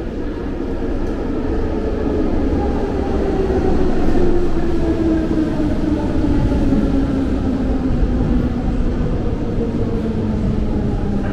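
Berlin S-Bahn electric train slowing down, its motor whine in several tones falling steadily in pitch over a low rumble from the running gear.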